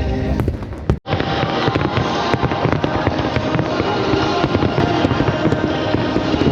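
Dense barrage of aerial fireworks bursting and crackling continuously, with music playing underneath. The sound cuts out briefly about a second in, then the crackling barrage resumes.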